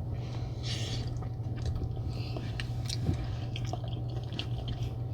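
Close-up mouth sounds of eating a saucy seafood boil: wet chewing, smacking and small clicks, over a steady low hum.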